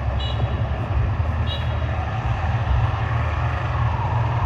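Steady road-vehicle noise with a heavy low rumble, and two short high chirps about a fifth of a second and a second and a half in.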